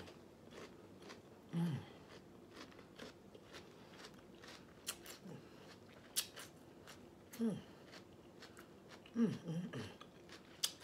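Close-up crunchy chewing of raw celery with ranch: a scatter of sharp crackling crunches. Four short falling 'mmm' hums of enjoyment come in between them.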